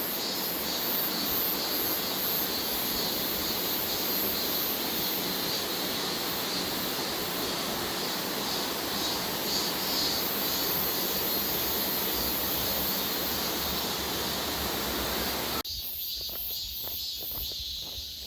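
Cicada chorus pulsing in high, shrill waves over a steady rushing noise. The rushing cuts off suddenly near the end, leaving the cicadas and footsteps on a path.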